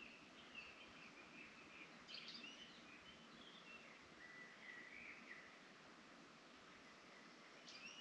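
Faint birdsong: scattered short chirps and whistled phrases, a longer, steadier note around the middle and a brief call near the end, over a quiet background hiss.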